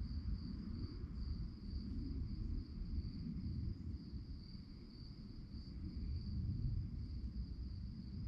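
Crickets chirping in a steady, evenly pulsing high trill, over a low rumble.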